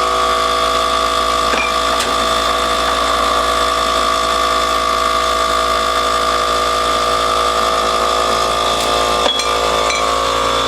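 Electric pump of a wine bottle filler running with a steady whining hum, with a few light clicks of bottles on top.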